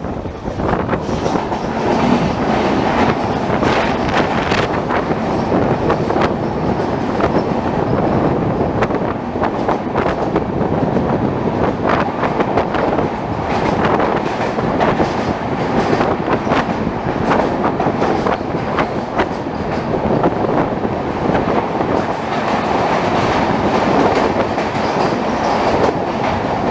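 Passenger train running, its wheels clattering over the rail joints in a steady stream of clicks over a continuous rumble.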